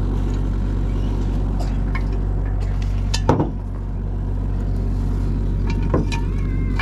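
Excavator engine running steadily, with a loud metallic clank about three seconds in and a lighter knock near six seconds.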